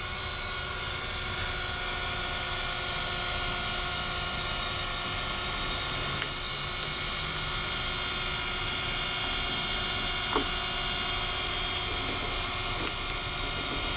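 Taft-Peirce surface grinder spindle motor running the grinding wheel: a steady machine whine made of several high tones, growing a little louder over the first couple of seconds and then holding steady. One short click about ten seconds in.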